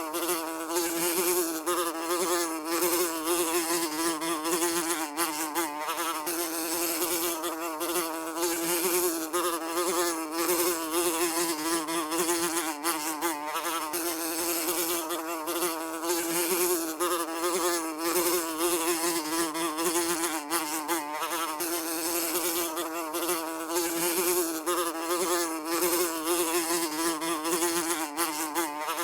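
A fly buzzing continuously, its steady hum wavering slightly up and down in pitch.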